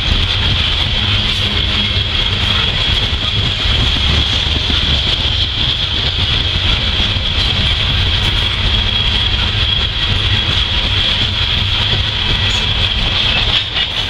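Coal hopper cars of a freight train rolling past at steady speed: a continuous rumble of steel wheels on rail, with a steady high-pitched tone laid over it.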